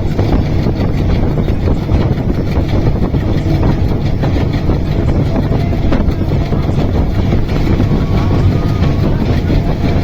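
Train running along the track, a loud steady rumble of wheels on rails.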